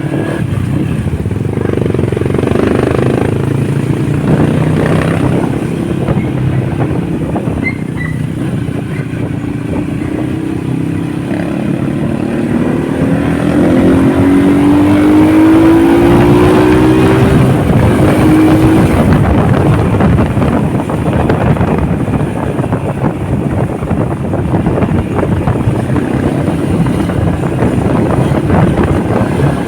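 Honda motorcycle engine running under way, mixed with a dense rush of noise; about halfway through its pitch climbs steadily as it accelerates.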